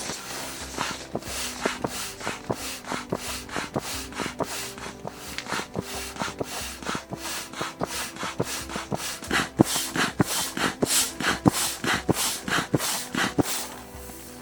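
Hand saw cutting through wood in steady back-and-forth strokes, about two to three a second, growing louder in the second half.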